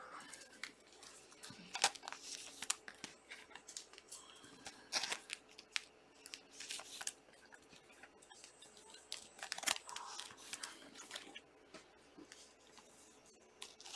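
Trading card packs being handled and opened: faint crinkling and tearing of the pack wrappers and cards sliding against each other, in scattered short bursts.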